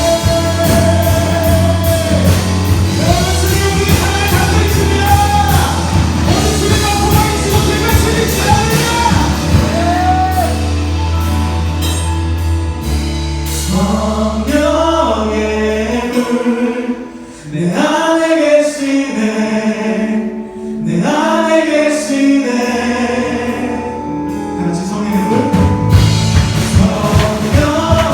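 A church praise band and singers performing a worship song live, voices in unison over the band. About halfway through the bass and drums drop out, leaving mainly the voices, and the full band comes back in near the end.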